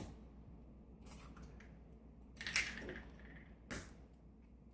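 Eggs being cracked into a blender jar: several faint cracks and knocks about a second apart, with a slightly longer crunching one about halfway through.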